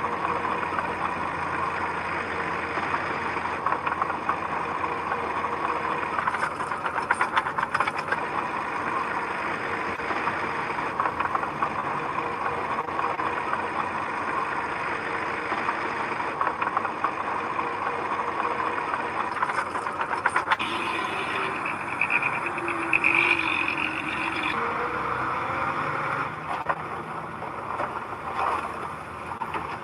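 Diesel engine of heavy earthmoving machinery running steadily, with a higher-pitched whine joining in for a few seconds about two-thirds of the way through.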